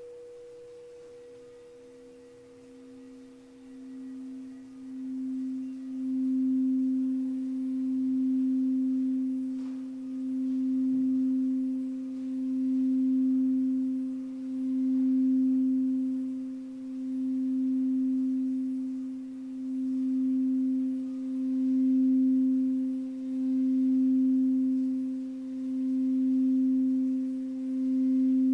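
Singing bowl sounding a low, sustained tone that builds up over the first few seconds, then swells and fades about every two seconds, while a fainter higher tone rings on above it.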